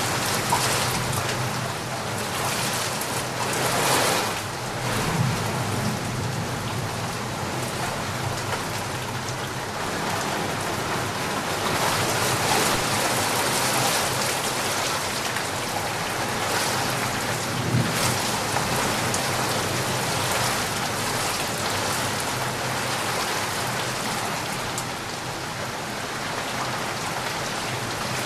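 Heavy rain falling steadily, a dense even hiss of drops on surfaces, with brief louder gusts about 4 seconds in and again near 18 seconds.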